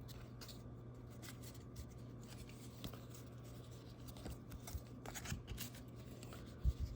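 Faint rustling and light clicks of trading cards being handled and shuffled, over a steady low hum, with two soft thumps near the end.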